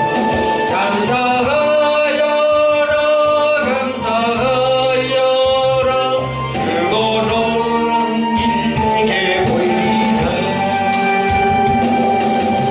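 A Korean gospel song: a sung melody with long held notes over instrumental accompaniment.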